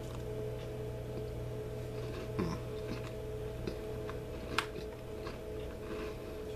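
Chewing a thin, crispy Tate's Bake Shop mint cookie: scattered small crunches and mouth clicks, the sharpest about four and a half seconds in, over a steady background hum.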